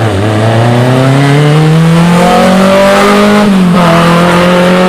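Rally car engine pulling hard under acceleration, its pitch climbing steadily, with a short dip about three and a half seconds in at a gear change before it holds high again.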